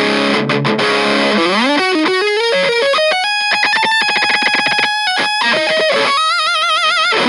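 Electric guitar played through a Kokko KH8 high-gain distortion pedal. It starts on a held, thickly distorted chord, climbs in a quick rising run, and then picks one high note rapidly over and over. Near the end it holds a note with wide vibrato.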